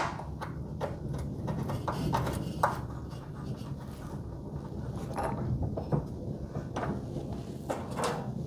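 Scattered light clicks, knocks and rubbing as metal hardware is handled, over a steady low hum.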